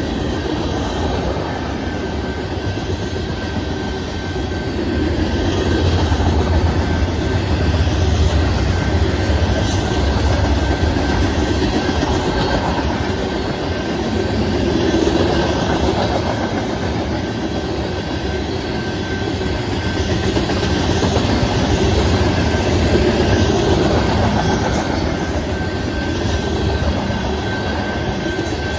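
Freight cars of a Canadian Pacific manifest train rolling past, a steady loud rumble with the clatter of wheels over the rail joints and a thin, steady high tone from the wheels, swelling and easing slightly as the cars go by.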